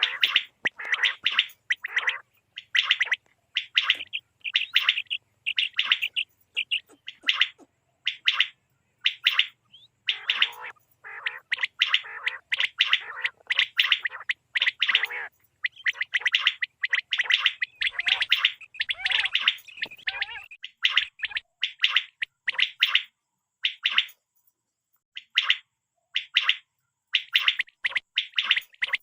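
Common quail calling over and over: short, sharp notes repeated two or three a second in quick runs, with brief pauses between runs.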